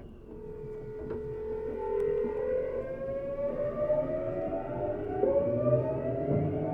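Motor car of a Tokyu 7700 series train accelerating: the traction motors and inverter give a whine of several tones that rise steadily in pitch and grow louder, with a shift in the tones about five seconds in, over a rising running rumble.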